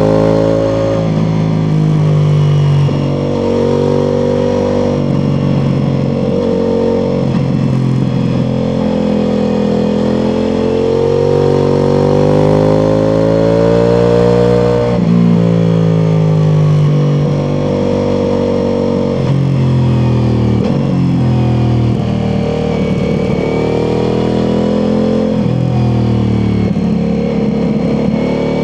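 Ducati Multistrada V4 Pikes Peak's 1158 cc V4 engine running under load through an Akrapovič exhaust, the revs repeatedly climbing and then dropping sharply, typical of accelerating through gear changes and rolling off for corners.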